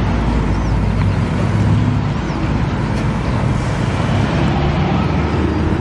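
Engines of JDM cars running as they drive past, a steady low rumble with road noise and no sharp revs.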